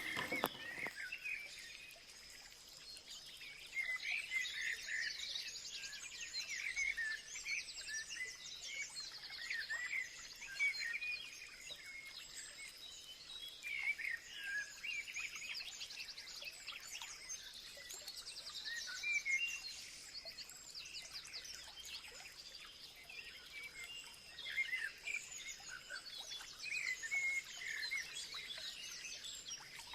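Birds chirping and singing in the background, many short calls one after another, over a faint steady high-pitched tone.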